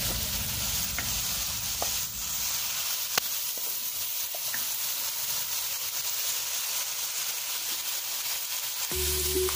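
Chicken and meat pieces sizzling in hot oil in a wok, with a few knocks of a wooden spatula against the pan in the first few seconds as it is stirred.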